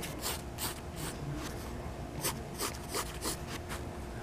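Short scratchy drawing strokes, a few a second at an irregular pace, from a drawing tool sketching lines. A faint steady hum runs underneath.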